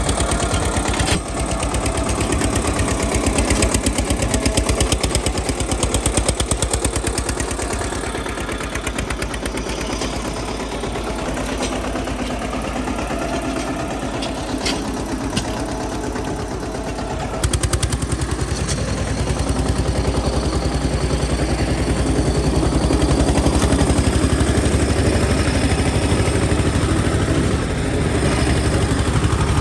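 Eicher 242 tractor's diesel engine running steadily with an even, rapid beat. About 17 seconds in its low note gets suddenly louder and stays up. A couple of sharp ticks come just before that.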